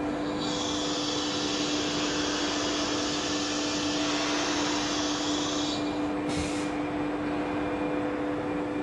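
Blue Elephant 1530 ATC CNC router running its automatic tool-length measuring cycle: a steady machine hum, with a hiss of compressed air for about five seconds that stops, then a short second puff of air.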